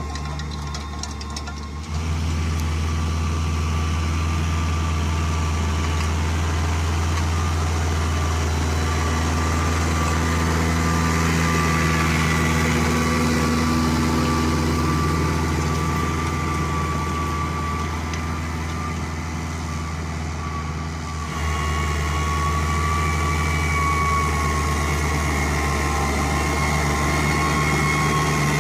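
New Holland T6070 tractor's diesel engine running steadily at working speed, with a thin high whine over the engine note. The sound jumps louder about two seconds in and changes again about two-thirds of the way through.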